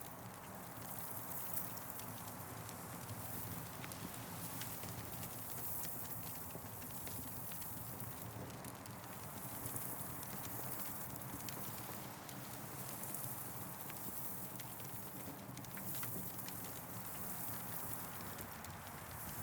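Campfire crackling, with irregular small pops and snaps over a steady hiss.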